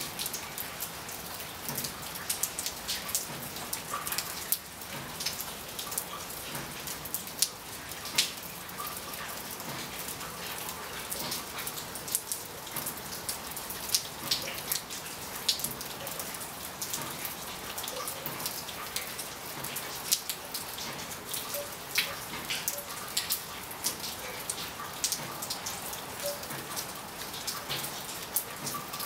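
Steady rain falling, with many close raindrops tapping sharply at irregular moments over an even hiss.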